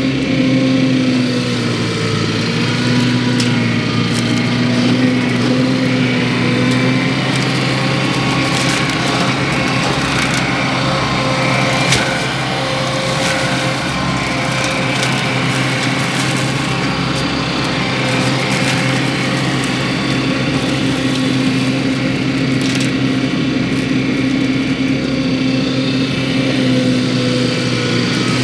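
Wacker Neuson SM120 mini skid steer running at steady high throttle while driving a Baumalight MS530M mulcher head, the engine note wavering slightly under load, with scattered sharp clicks.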